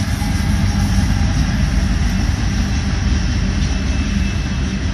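BNSF manifest freight train passing close by with a steady, loud rumble: the last lead diesel locomotive goes by and covered hopper cars follow, rolling over the rails.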